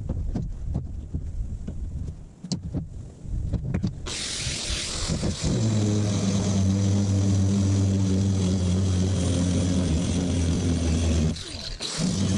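A die grinder cutting into the truck bed: a few knocks and handling noises, then about four seconds in a steady, hissing cut starts, joined by a steady low drone, and it stops a little before the end.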